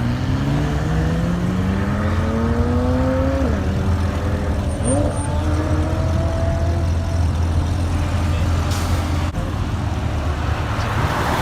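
A car engine accelerating hard. Its pitch climbs for about three and a half seconds, drops sharply at an upshift, then rises again and holds before fading after about seven seconds, over a steady low rumble.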